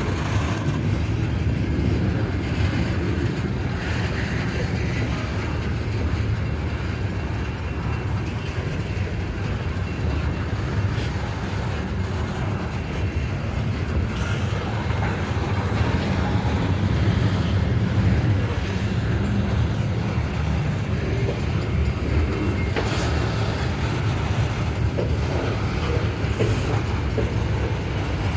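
Steady low rumble of a loaded coal train's hopper cars rolling past on the rails, with a few faint knocks along the way.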